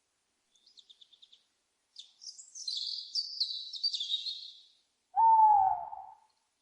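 Small birds chirping, a faint quick series of chips and then a few seconds of busy high twittering, followed about five seconds in by a single loud owl hoot, about a second long, that drops in pitch at its end.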